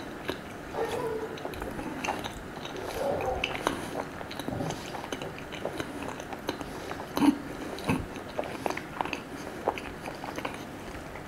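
Close-miked chewing and biting of a sweet crepe: irregular wet mouth clicks and smacks, with one sharper knock about seven seconds in.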